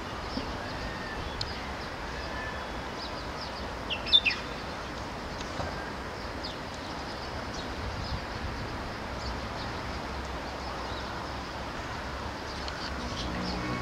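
Small birds chirping with short, scattered high calls over a steady background of outdoor noise. One louder, falling call comes about four seconds in.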